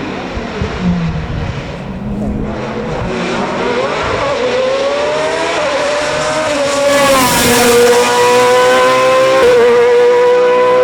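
Racing car engine approaching at high revs. The pitch climbs, drops once at an upshift about seven seconds in, then holds a steady high note while growing louder.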